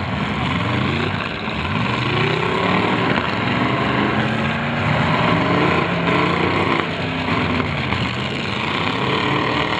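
Several demolition derby car engines revving at once, their pitches climbing and falling over one another.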